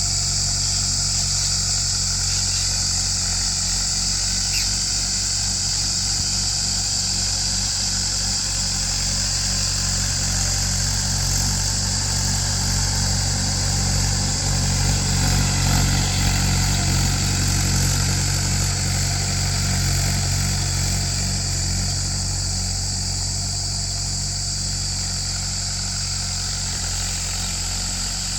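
Mahindra tractor's diesel engine running steadily under load while ploughing, a low drone with a steady high hiss over it. It swells a little about halfway through and eases slightly near the end.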